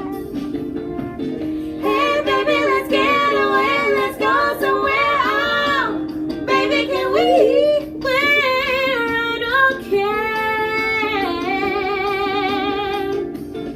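Female voice singing wordless soul runs over guitar accompaniment, ending on a long wavering held note.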